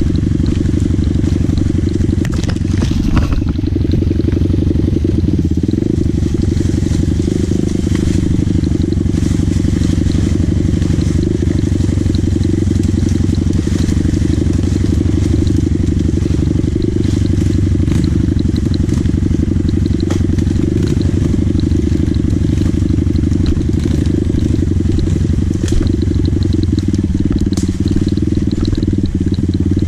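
Dirt bike engine running steadily under way, a dense, even low rumble with no let-up.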